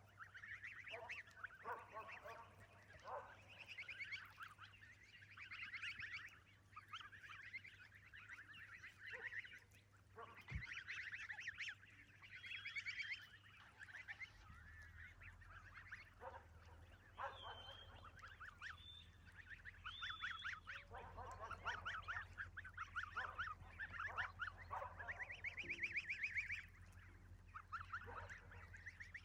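Domestic geese in a flock calling over and over, with short, buzzy calls overlapping one another.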